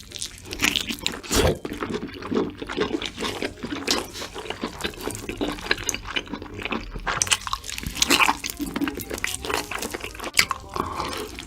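Close-miked, wet mouth sounds of eating chicken: an irregular run of sticky smacks and clicks as the meat is chewed and pulled apart.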